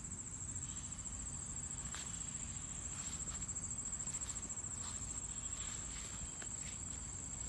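Crickets trilling in one steady, high-pitched unbroken chorus, with a few faint ticks and rustles.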